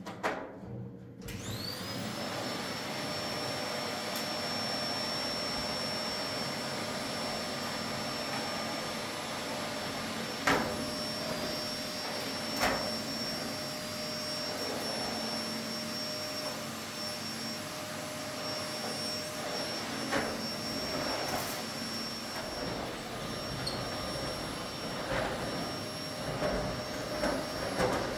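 Vacuum cleaner switched on about a second in: its motor spins up to a steady whine and keeps running, with a few sharp knocks against it.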